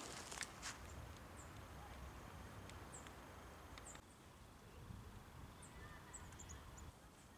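Faint, very high, thin calls of small birds, a scattered handful of short chirps over a low steady rumble of wind. A couple of footsteps crunch in the first second.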